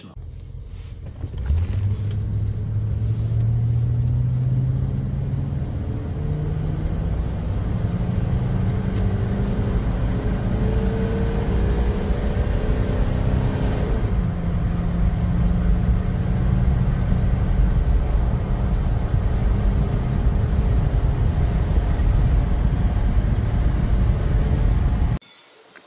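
1979 Lincoln Continental's 400 V8, fed by an Edelbrock 1406 four-barrel carburetor, running under hard acceleration. The engine note climbs, drops about fourteen seconds in as with a gear change, then carries on steadily, with road rumble underneath. It cuts off shortly before the end.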